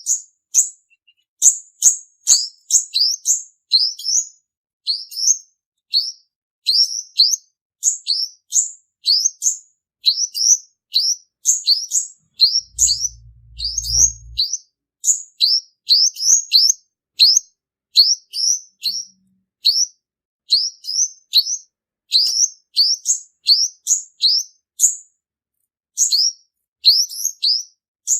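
Male purple-throated sunbird singing: quick, thin, high chirps, each rising in pitch, delivered in short rapid bursts one after another. A brief low hum sounds about halfway through.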